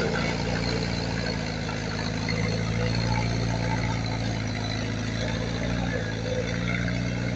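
Diesel engine of a piece of heavy earthmoving machinery running steadily at an even speed, a low hum.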